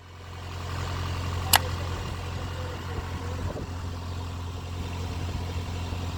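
An engine running steadily with a low hum, fading up over the first second. A single sharp click comes about a second and a half in.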